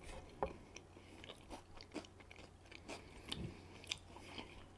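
Faint close-miked chewing of a mouthful of guacamole and candied-bacon burger slider: scattered soft, wet mouth clicks and smacks.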